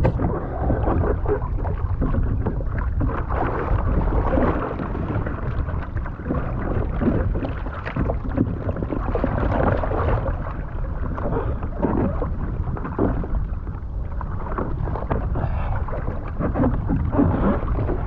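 Sea water sloshing and splashing close to the microphone around a swimmer beside a capsized kayak, over a constant heavy low rumble, with irregular splashes throughout and no strokes in a steady rhythm.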